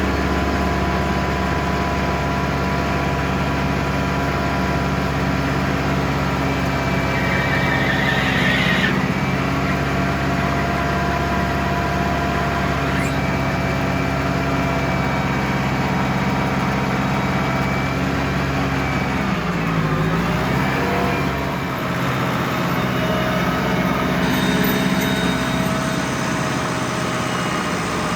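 Ford 6610 tractor's diesel engine running steadily at working speed. About twenty seconds in, the engine briefly drops in speed and then picks back up.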